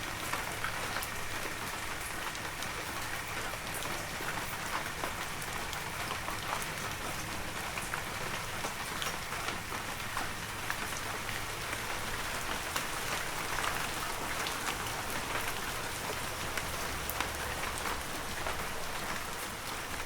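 Heavy rain falling steadily, a dense hiss full of individual drop ticks.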